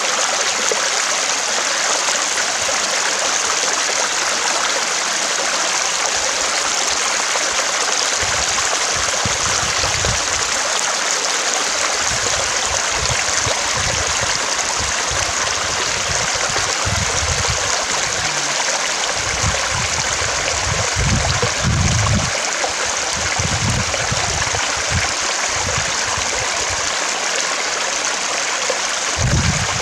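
Running stream: a steady rush of flowing water, with irregular low rumbles coming and going from about a third of the way in.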